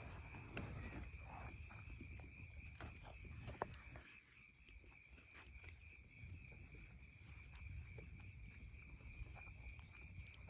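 Faint, steady chirring of crickets at night, with scattered small clicks and one sharper click about three and a half seconds in.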